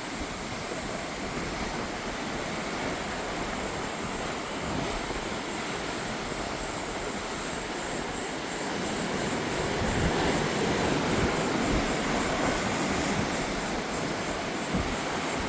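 Sea waves washing ashore with wind, a steady rushing that swells louder about ten seconds in.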